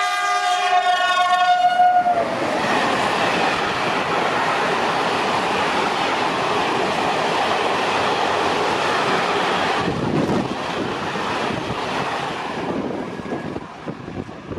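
Train horn sounding a held chord that cuts off about two seconds in, then a train passing through with a loud rush of wheels and air that fades away over the last few seconds.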